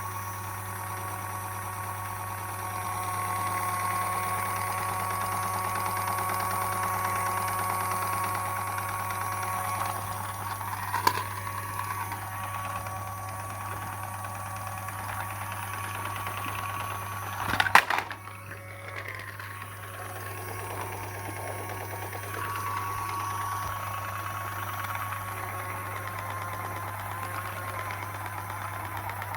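A small electric motor runs with a steady, slightly wavering whine over a low hum. It is broken by a short clatter about eleven seconds in and a louder one near eighteen seconds.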